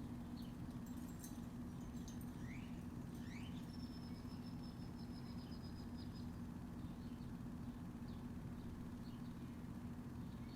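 Small birds chirping: two quick rising chirps about a third of the way in, then a rapid high trill lasting a couple of seconds. Under them runs a steady low hum with a constant tone.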